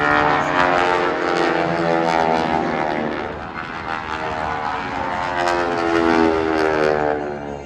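A formation of North American T-6 Texans making passes: loud propeller-driven rasp from their radial engines that swells twice, the pitch dropping as each pass goes by. The rasp comes mostly from the propeller tips going supersonic at around 2,400 rpm.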